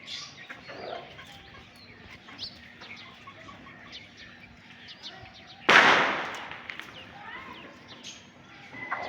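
Backyard chickens calling softly, with scattered short high chirps. About two thirds of the way through comes one sudden loud rustling rush that fades over about a second.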